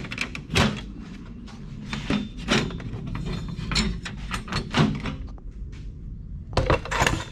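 Irregular knocks and clunks of parts being handled and set down, with a quick cluster of louder ones near the end.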